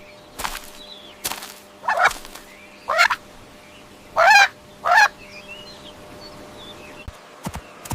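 Farm poultry calling: about five loud calls in the first five seconds, the loudest about four seconds in, followed by faint high chirps.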